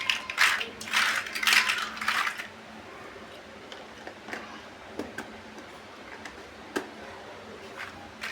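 Plastic building bricks clattering as they are handled, for about two and a half seconds. Then come scattered single clicks and taps as pieces are picked up and placed.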